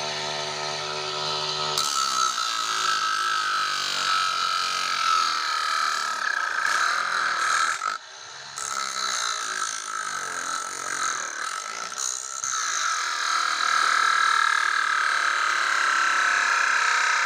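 Homemade angle grinder driven by a 775 DC motor. It runs with a steady whine for about two seconds, then its disc grinds into material with a rough, uneven noise. The grinding breaks off briefly about eight and twelve seconds in.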